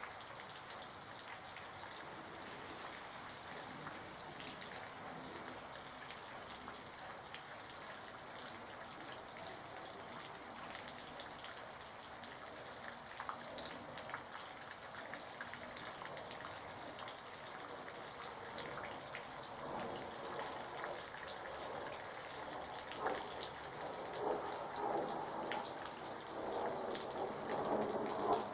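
Rain falling, a steady patter of small drops ticking on surfaces; about two-thirds of the way through the drops turn louder and more irregular.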